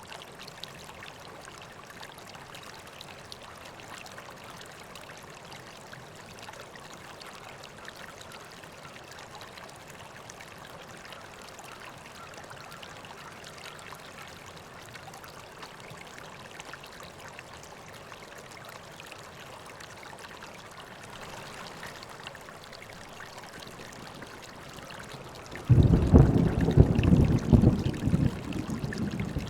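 River water flowing steadily. Near the end a sudden loud low rumble breaks in and keeps going, much louder than the water.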